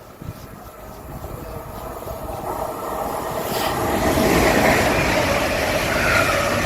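A train approaching and passing, its noise building steadily over about four seconds to a loud rumble with a steady whine on top.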